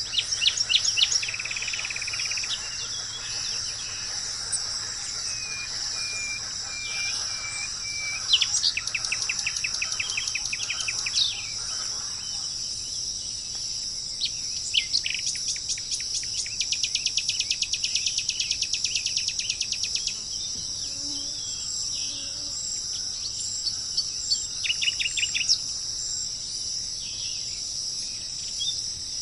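Birds calling over a steady, high insect chorus. The birds give short whistled notes and rapid trills of many quick notes, the longest trill lasting about four seconds.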